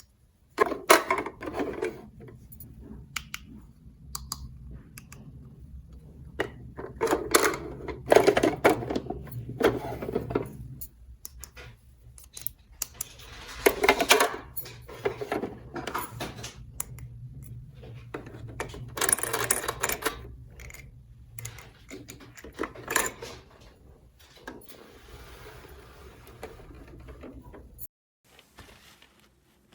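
Small plastic toy pieces clicking and clattering as they are handled, in irregular bursts over a steady low hum that cuts off near the end.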